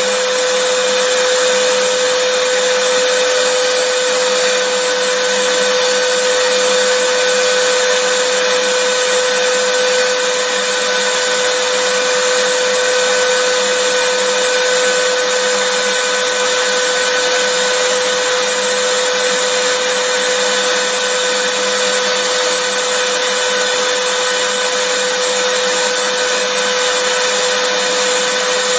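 Vacuum cleaner running steadily: a constant rushing hiss with a steady humming tone from the motor, holding the same pitch and level throughout.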